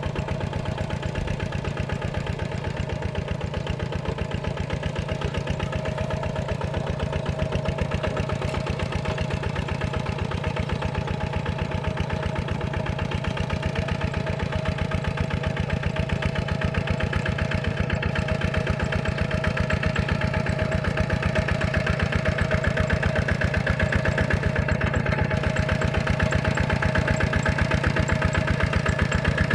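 Tractor diesel engine running steadily with a fast, even beat, growing slightly louder toward the end.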